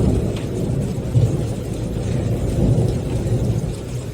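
Thunder rumbling low and long, swelling at the start with two peaks, about a second in and again near three seconds, then fading.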